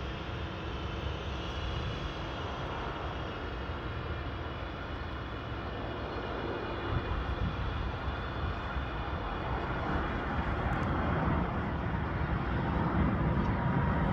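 Aircraft engines running: a steady rush with a faint high whine, growing louder over the second half.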